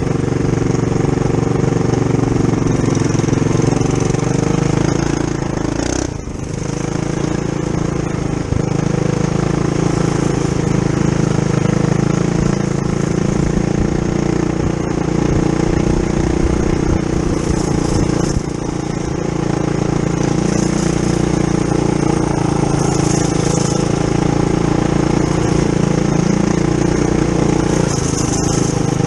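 Tillotson 212cc single-cylinder engine of a Trail Master MB200-2 mini bike, stage one with the governor removed, running steadily under throttle while riding. The engine eases off briefly about six seconds in and again around eighteen seconds, then picks back up.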